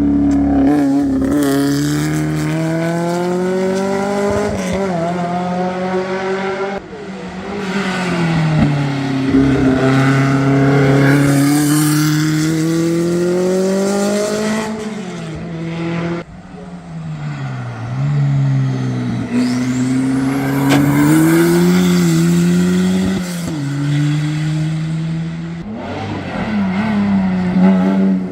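Historic competition car's engine at full throttle, its pitch climbing over and over and dropping sharply at each gear change or lift, about eight times.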